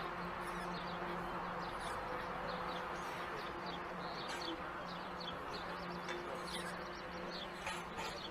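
Small birds chirping rapidly and continuously, short falling chirps several a second, over a steady low hum and constant outdoor background noise.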